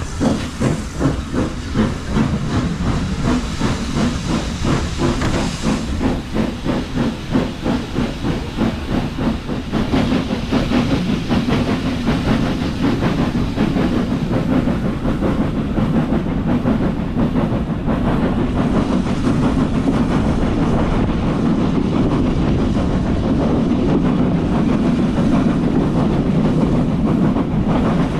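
Steam locomotive working a train, its exhaust chuffing in regular beats with steam hissing. After about ten seconds the beats blend into a steadier running noise.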